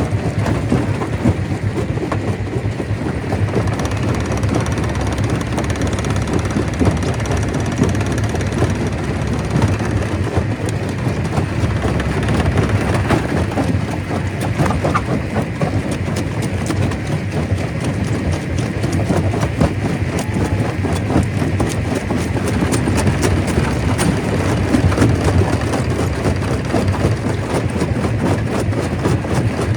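Stone crusher running steadily, with a dense, continuous clatter of rock being broken and rattling through the machine.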